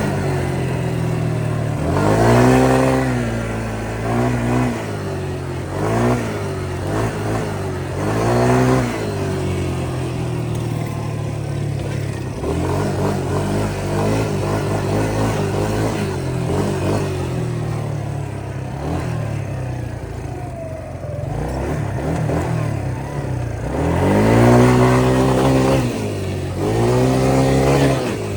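Small single-cylinder ATV engine of a Yamaha Grizzly 125 running while riding, revving up and easing off again and again as the throttle is worked. The loudest rev swells come about two seconds in and near the end.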